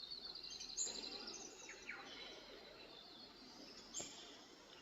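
Faint birdsong: a quick high trill in the first second, then scattered high chirps and short falling notes, over a low background hiss.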